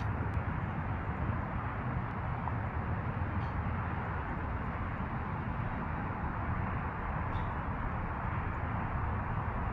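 Steady low rumble of outdoor background noise, even throughout, with no clear single source.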